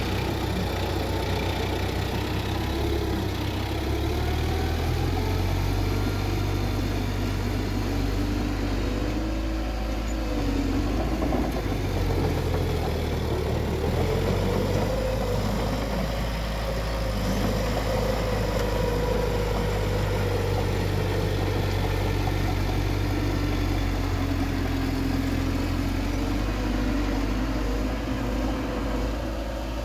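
Bulldozer's diesel engine running steadily under working load, its pitch drifting up and down as it works.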